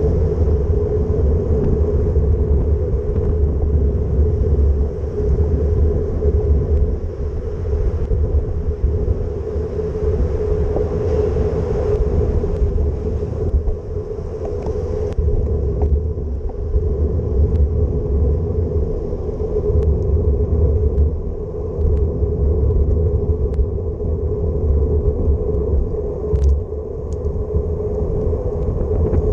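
Wind buffeting the microphone during a bicycle ride, a heavy, fluctuating rumble over a steady hum, with a few faint clicks near the end.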